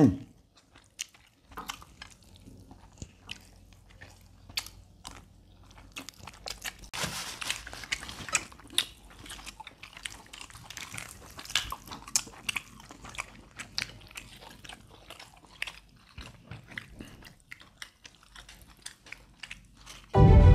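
Close-up eating sounds of barbecued chicken eaten by hand: many short bites and crunches with chewing, busiest about seven to nine seconds in.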